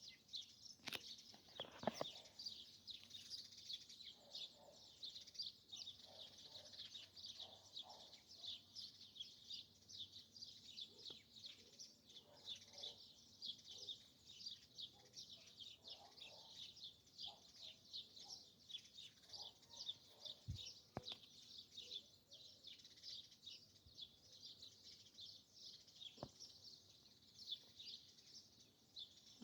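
Forest birds chirping in a dense, unbroken chorus of quick high-pitched chirps, with some lower calls now and then. There are a few sharp clicks near the start and about two-thirds of the way in.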